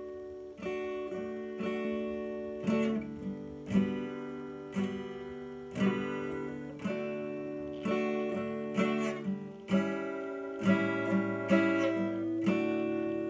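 Solo acoustic guitar playing the song's instrumental intro: chords strummed in a steady rhythm of about one stroke a second over a moving bass line, with the chord changing a few times.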